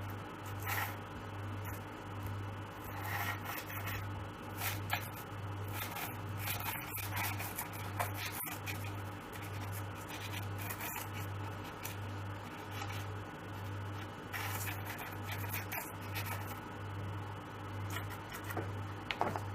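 Dry pastel stick scratching and rubbing across paper in short, irregular strokes, over a faint low pulsing hum.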